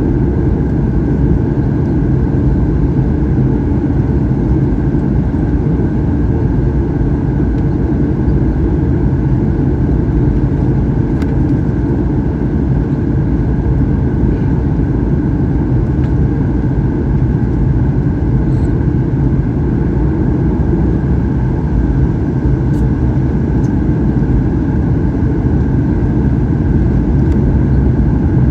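Steady cabin noise of a Boeing 737-800 in flight: the CFM56 turbofan engines and airflow making an even low drone that does not change.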